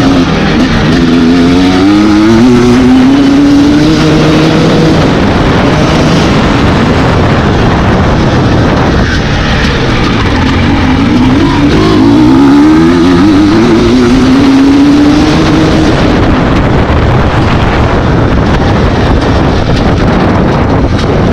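Dirt bike engines at race pace, revving hard and climbing in pitch through the gears, shift after shift. There are two long runs of acceleration, one at the start and one near the middle.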